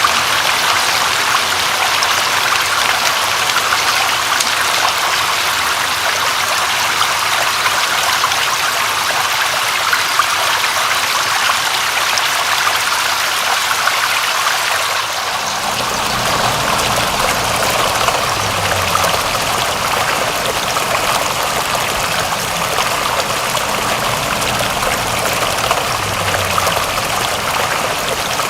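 Steady rushing, trickling water, a continuous hiss of rain-and-water sound. About halfway through the sound shifts and a low rumble comes in beneath it.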